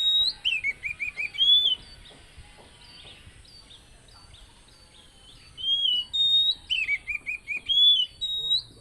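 Oriental magpie-robin (kacer) singing: a phrase of clear rising and falling whistles ending in a quick run of five short notes, sung once at the start and again about five and a half seconds in. Faint chirps of other birds between the phrases.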